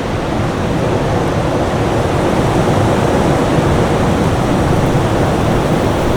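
Steady rushing noise of winter storm wind, deep-toned, swelling slightly over the first couple of seconds.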